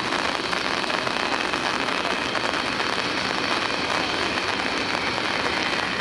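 Heavy rain falling, a steady even hiss that holds the same level throughout.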